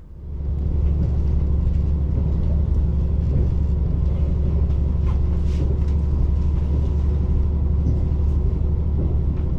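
Diesel railcar's engine coming up to power with a sudden, steady low rumble as the train pulls away, heard from inside the car.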